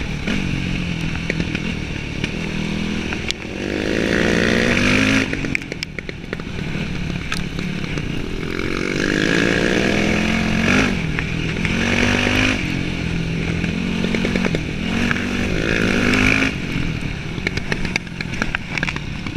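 Yamaha WR dirt bike engine under way on a trail, revving up and easing off repeatedly as it works through the throttle, with occasional knocks and clatter from the rough ground.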